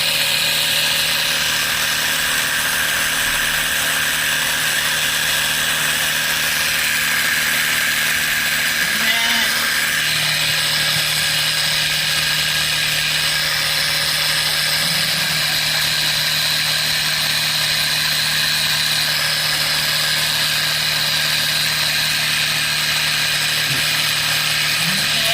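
Battery-powered sprayer pump motor running steadily, its pitch holding even, with a low tone that grows stronger about ten seconds in.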